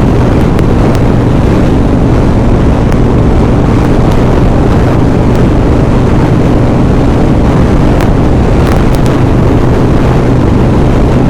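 Harley-Davidson Sportster V-twin motorcycle engine running at a steady cruising speed, with strong wind buffeting the rider's microphone.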